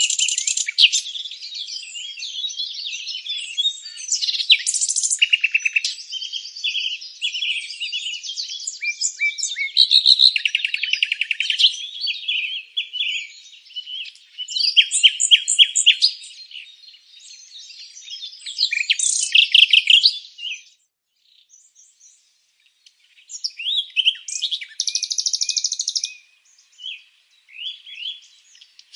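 Birds chirping and singing in a busy chorus of quick chirps and trills, several calls overlapping. Past the middle the chorus falls almost silent for about two seconds, then picks up again.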